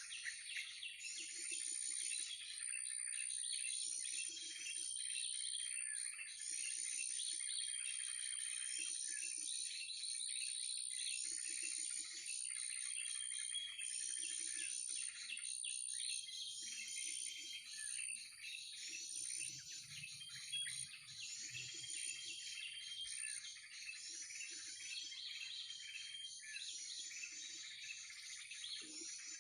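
Many small birds chirping and chattering, the calls swelling and fading in a regular cycle about every two and a half seconds, over a steady high-pitched whine.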